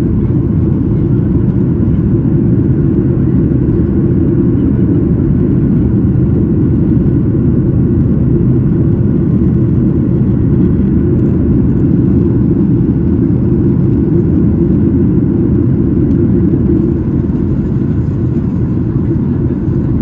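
Steady cabin noise of a Boeing 737-800 in flight: the CFM56-7B engines and airflow running as a constant low rumble, easing slightly about seventeen seconds in.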